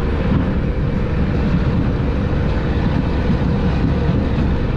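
Steady low rumble of a vehicle on the move, with no sudden events.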